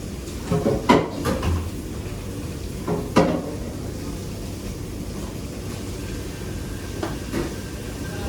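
Kitchen work clatter: a few sharp knocks, a cluster about a second in and the loudest about three seconds in, with weaker ones near the end, over a steady background hum.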